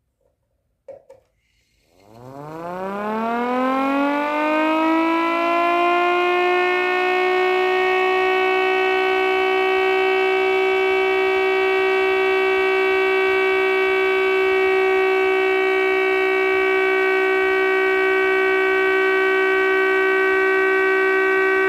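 Underpowered 3D-printed mechanical siren with a 5/6-port rotor, giving a two-tone chord: after a brief click it winds up in a rising wail, levels off after a few seconds and holds a steady pitch, starting to wind down at the very end.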